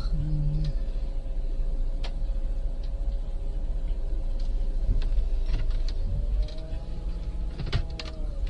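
Strong wind buffeting the microphone in a deep, continuous rumble. Over it sit a steady hum and scattered clicks and knocks.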